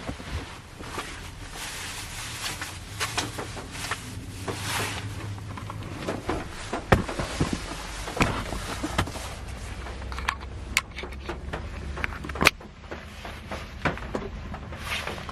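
Rain on the roof of a Honda Step Wagon heard from inside the cabin: a steady patter with scattered sharp, irregular drop ticks, a few much louder than the rest, over a low steady hum.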